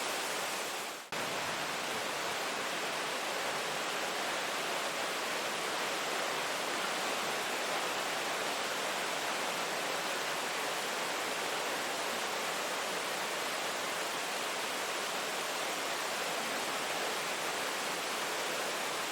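Steady rain falling, an even hiss of drops, that dips briefly about a second in and comes straight back.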